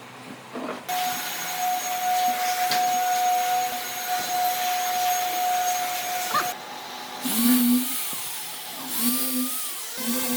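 A small electric motor running steadily with a whine, stopping abruptly about six and a half seconds in. It is followed by a few shorter sounds that waver in pitch.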